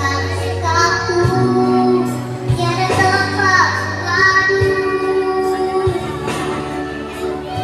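A child singing a melodic song with vibrato over instrumental backing music.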